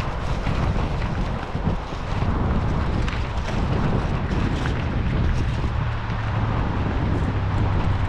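Wind buffeting the microphone, a steady rumbling rush with a low, even hum coming in about five seconds in.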